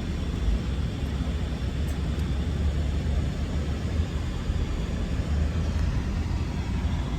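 Steady low rumble of a moving car, the road and engine noise heard from inside the cabin.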